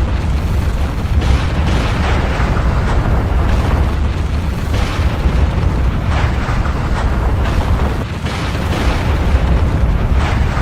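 Volcanic eruption: a continuous deep rumble with a crackling, popping texture over it.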